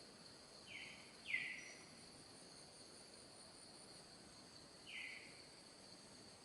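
Steady, faint chorus of insects such as crickets, a constant high trill. Three short falling calls from an unseen animal cut through: two close together about a second in, the second the loudest, and one more near the end.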